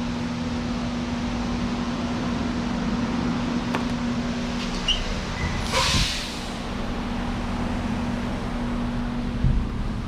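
A steady mechanical hum, with a few light clicks and knocks of parts being handled and a brief rustling scrape about six seconds in.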